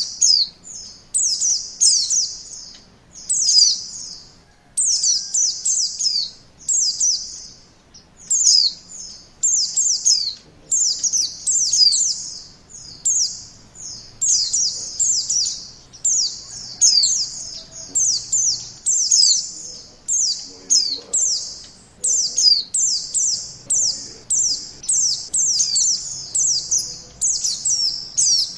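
White-eye (pleci) singing: rapid, high twittering phrases of quick falling notes, repeated one after another about every second without a break.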